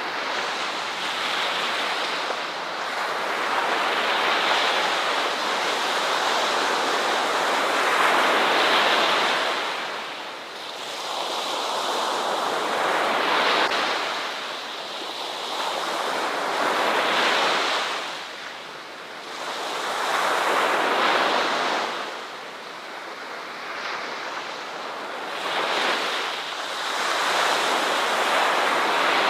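Ocean waves breaking and washing on a shore, the surf swelling and ebbing every few seconds in a steady rhythm.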